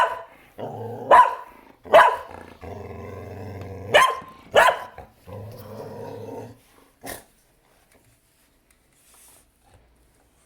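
Shetland sheepdog barking sharply about six times, with low growls between the barks, at a vacuum cleaner that is not running. She falls quiet after about seven seconds.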